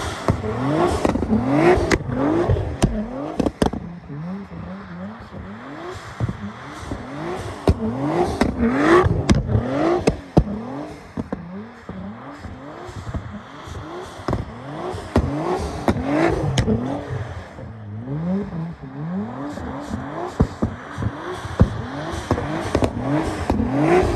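Car engine revving hard over and over, its pitch climbing and dropping back about once a second, with sharp cracks and pops mixed in.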